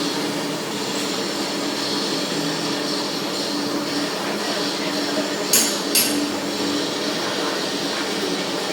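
Workshop machinery running steadily, with two sharp metallic knocks about half a second apart a little past the middle.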